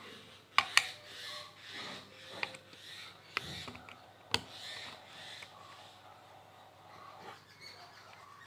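Close handling noises: a few sharp clicks, two in quick succession about half a second in and single ones near two and a half, three and a half and four and a half seconds, with scratchy rubbing sounds between them.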